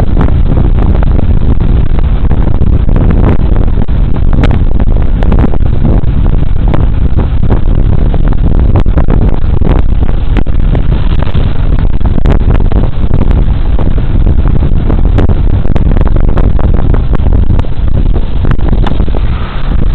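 Heavy, steady wind rumble on a body-worn camera's microphone while riding a Suzuki Burgman Street 125 scooter, with the scooter's running and road noise mixed in; it dips briefly near the end.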